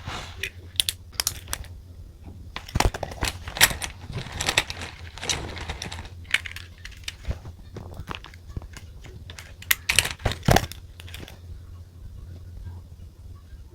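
Stationery being handled for diary writing: a run of small clicks and taps mixed with paper rustling, with a couple of louder clicks about ten seconds in, then quieter near the end.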